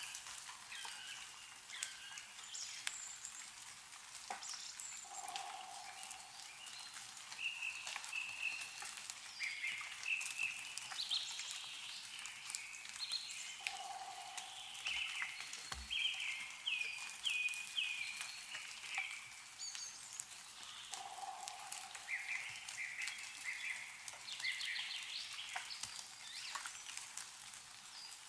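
Meltwater dripping from snowy trees in scattered irregular drops, over a light hiss. Several birds chirp and twitter throughout, and a lower bird call comes three times, about eight seconds apart.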